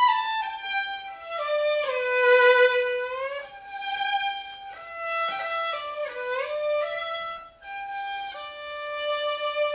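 Background music: a solo violin playing a slow melody of held notes with slides between them.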